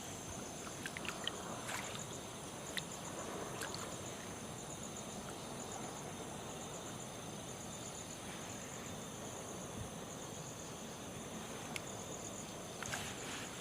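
Steady rush of flowing floodwater, with insects chirping in a fast, even high trill over it. A few small sharp clicks come near the start and again near the end.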